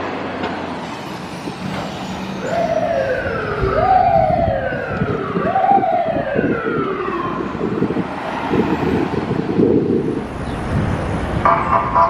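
Fire truck siren sounding in repeated sweeps, each rising quickly and then falling away more slowly, over a low truck rumble. Near the end, steady horn blasts come in on and off.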